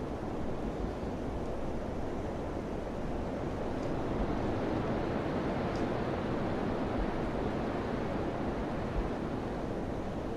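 Wind blowing steadily, a soft rushing noise that swells a little around the middle.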